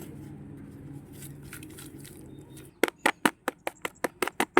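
A plant tub being knocked to loosen the packed soil and rain lily root ball. It starts as a low steady hum, then about two-thirds in comes a quick run of about ten sharp taps, five or six a second.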